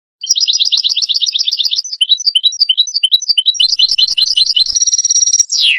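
European goldfinch singing: a fast run of twittering notes, then a string of separate rising chirps, then fast twittering again, ending in a short buzzy trill that drops in pitch.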